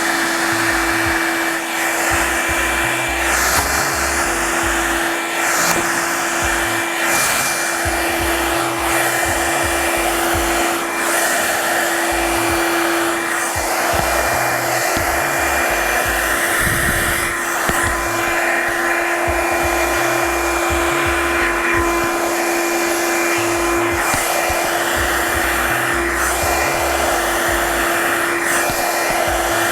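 Revlon One-Step paddle-brush hair dryer running steadily, loud, a continuous rush of air with a steady motor tone running through it.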